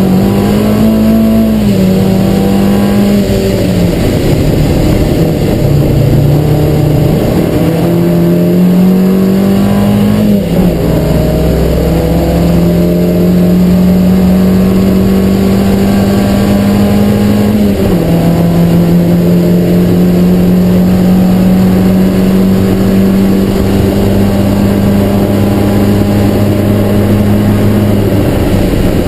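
Triumph Spitfire's four-cylinder racing engine heard from inside the cabin, pulling hard. The revs climb and drop at gear changes several times in the first half, then hold high and steady along a long straight, with a drop near the end.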